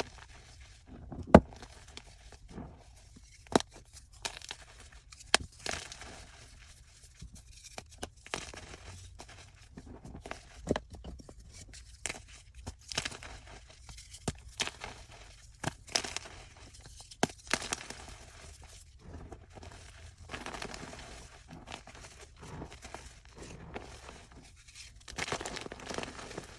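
Blocks of gym chalk being crushed: a dense, irregular run of soft crunching and crumbling, broken by a few sharp snaps. The loudest snap comes about a second and a half in.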